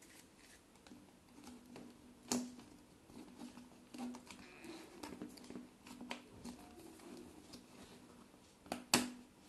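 Plastic interlocking building blocks being handled and snapped together: scattered light clicks, the loudest about two seconds in and a quick double click near the end, over a faint steady hum.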